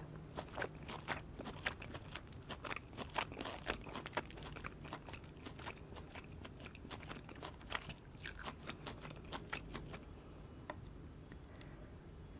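Close-miked chewing of a sauce-dipped piece of grilled meat, with many short crisp clicks from the mouth that thin out about ten seconds in.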